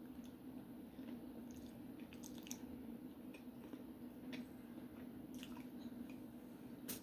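Close-up wet eating sounds of seafood boil in butter sauce: soft squishing and chewing with scattered small clicks, over a steady low hum.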